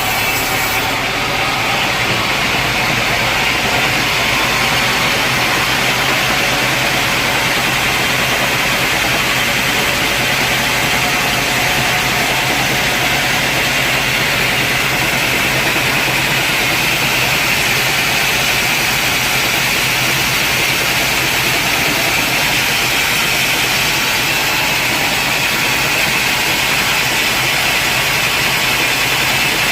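Sawmill machinery running steadily with a loud, even mechanical noise. About a second in, a high hiss drops away.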